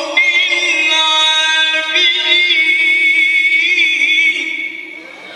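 Melodic Quran recitation by a single reciter. One word is drawn out in long held notes with ornamental wavering turns, then fades away near the end.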